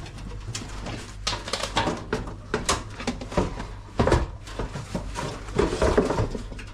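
Irregular knocks, scrapes and rubbing as an LG washing machine's drum and tub assembly is lowered into its cabinet, loudest with a knock about four seconds in.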